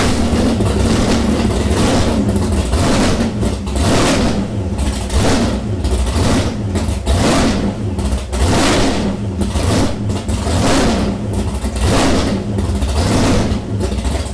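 Drag Pak 354 Hemi V8 race engine, just started cold after sitting for months, revved again and again in quick blips, about one a second, over a steady idle.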